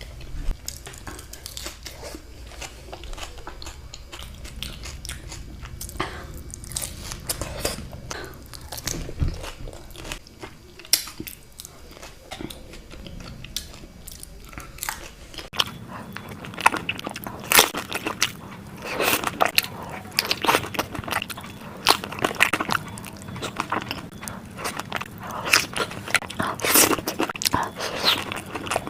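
Close-miked biting and chewing of crisp dahi puri shells: irregular crunching and crackling, louder and denser in the second half.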